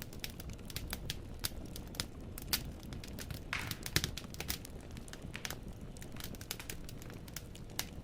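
Wood fire burning in a fireplace: irregular snaps and pops of the logs over a low rumble of flame. Near the middle comes a short hiss, then the loudest pop.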